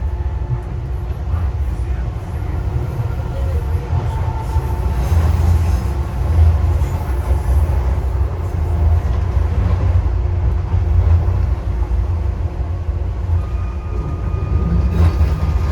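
Docklands Light Railway train running, heard from inside the carriage: a steady, loud low rumble of wheels on track. A faint steady tone joins the rumble about two seconds before the end.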